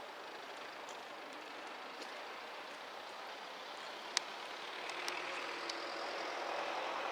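Street watering truck running and drawing closer, its noise growing steadily louder, with a sharp click about four seconds in.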